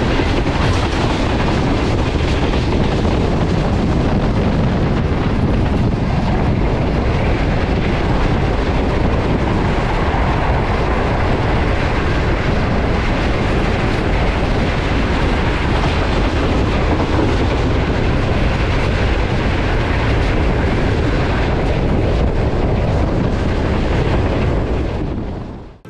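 Passenger train running at speed on the track: a steady, loud rush of wheel and rail noise that fades out at the very end.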